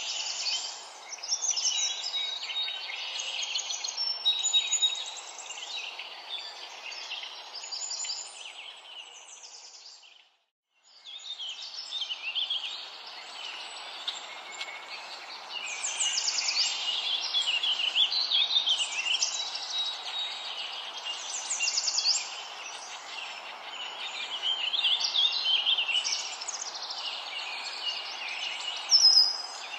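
Many small birds chirping and singing over a steady hiss, with the sound dropping out briefly about ten seconds in.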